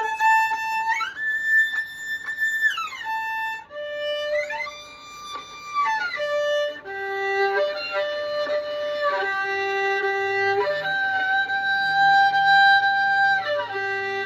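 Violin played on one string after another, each time a held note that glides up about an octave to a higher, lightly touched harmonic and glides back down, moving to lower strings in turn.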